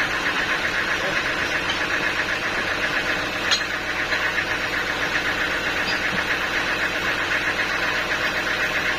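Sawmill machinery running steadily, a fast even pulsing over a steady drone, with one sharp click about three and a half seconds in.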